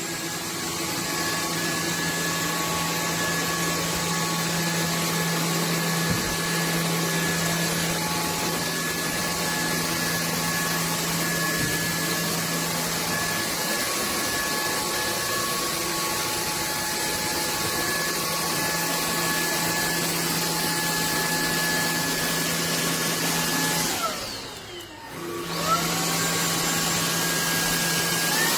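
SKIWEC cordless stick vacuum's motor running with a steady whine. About 24 seconds in it winds down briefly, then spins back up.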